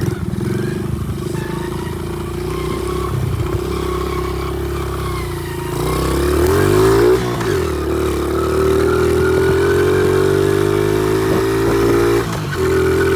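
Honda XR70 pit bike's small four-stroke single-cylinder engine running under way. It revs up and back down about six seconds in, holds a steady higher pitch, and dips for a moment near the end before picking up again.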